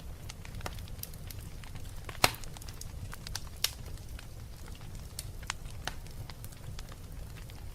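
Wood fire burning in a fireplace: a steady low rumble with scattered crackles and sharp pops, the loudest pop a little over two seconds in.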